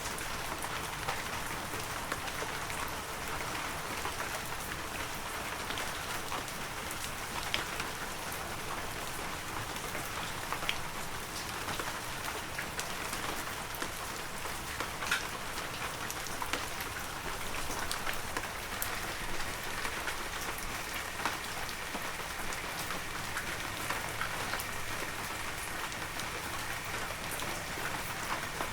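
Heavy rain falling steadily, a dense hiss of rain with scattered sharper drops striking close by.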